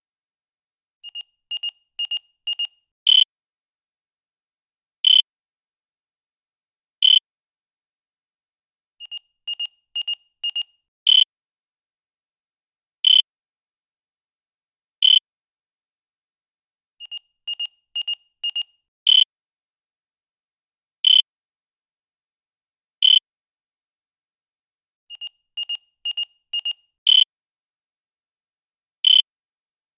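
Electronic beeps at one high pitch, repeating in a cycle of about eight seconds: four quick, softer beeps half a second apart, then three loud single beeps two seconds apart.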